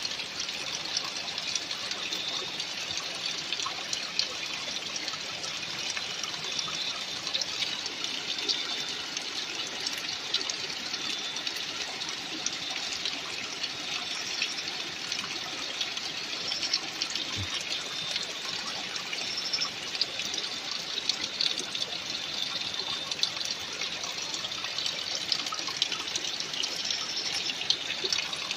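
Flowing water rushing steadily, an even hiss of water with small splashes.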